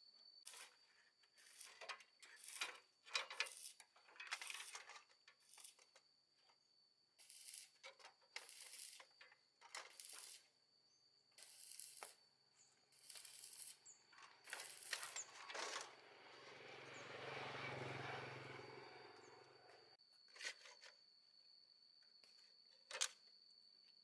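Faint clinks, taps and scrapes of hands working on metal engine parts, coming in short irregular bursts, over a steady high whine. A low rumble swells and fades about two-thirds through, and two sharp clicks follow near the end.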